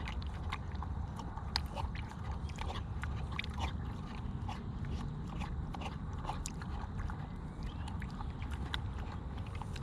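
An animal drinking water from cupped hands in a waterer: many small, irregular wet lapping and slurping clicks, several a second, over a steady low rumble.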